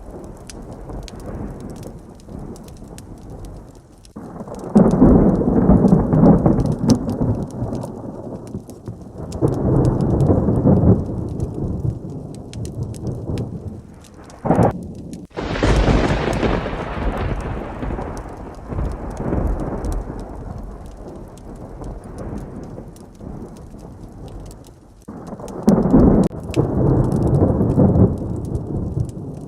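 Steady heavy rain with thunder rolling in four times, in long low rumbles. About halfway through, one clap starts with a sudden sharp crack and then rumbles away.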